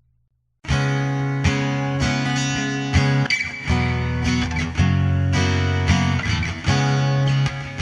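Instrumental music: acoustic guitar strumming full chords, starting suddenly about half a second in after a moment of silence.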